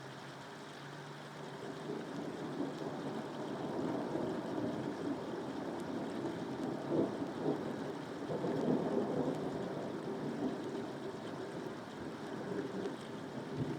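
Steady rain with a long rolling rumble of thunder that builds about two seconds in, is loudest around the middle and slowly dies away near the end.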